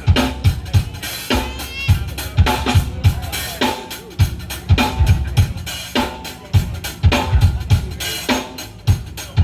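Live band playing an instrumental old-school R&B groove, driven by a drum kit with steady kick and snare hits.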